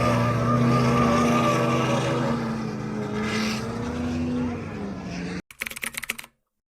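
Car engine running at high revs, its pitch falling over the second half as it comes off the throttle, with a brief tyre squeal midway. The sound cuts off suddenly, followed by a short crackle and then silence.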